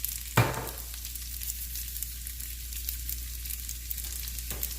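Pasta with asparagus in brown butter and vegetable stock sizzling steadily in a pan on an electric stovetop, with a single sharp knock about half a second in.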